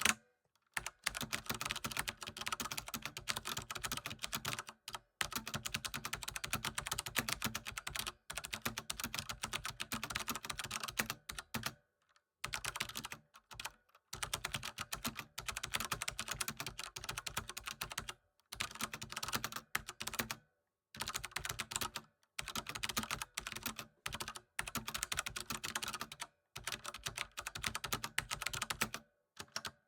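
Continuous typing on a computer keyboard: rapid runs of key clicks, broken by brief pauses every few seconds.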